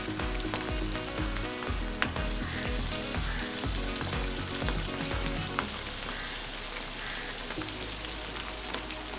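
Marinated, flour-coated chicken wings deep-frying in hot oil: a steady sizzle with frequent small crackles and pops.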